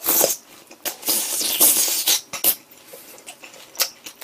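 Close-miked crunching and chewing of a sauce-dipped fried pork cutlet (donkatsu): irregular crunchy bites, densest in the first half, then softer chewing clicks.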